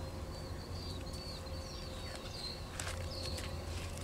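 A bird chirping a quick series of short, repeated high notes, with a couple of brief rustles near the end, over a low steady background rumble.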